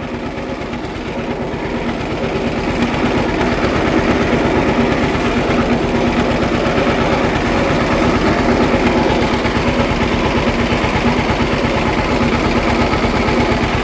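Model B tractor's engine running with an even, pulsing beat, getting louder over the first few seconds and then holding steady. The engine has just been revived after sitting and still needs a tune-up.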